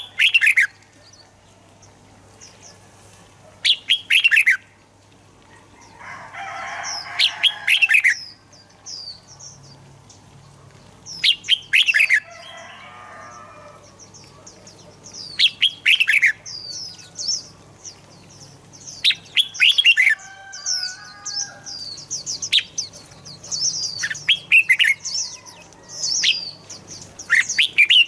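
Red-whiskered bulbuls singing: short, loud phrases of a few quick, sweeping notes, repeated every few seconds. Rapid high chirping runs almost without a break through the second half.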